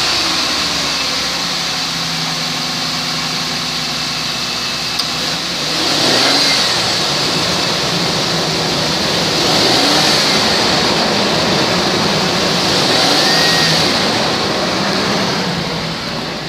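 2004 Ford Explorer engine running just after starting, at 262,000 miles. It idles and swells in revs a few times, around a third of the way in, in the middle, and again past the middle.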